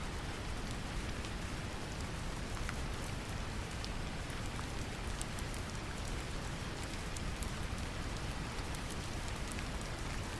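Steady brown noise, a deep, even rumble, mixed with gentle rain whose scattered drop ticks sit on top.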